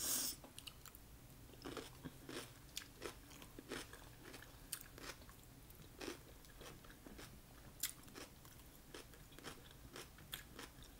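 Close-up eating sounds: a crisp bite into cucumber at the very start, then chewing with small crunches and wet mouth clicks throughout.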